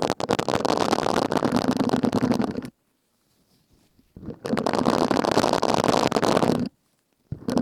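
Silicone scrubbing sponge rubbed and squeezed close to the microphone: two spells of dense crackling friction, each about two and a half seconds, with a pause between, and a third beginning near the end.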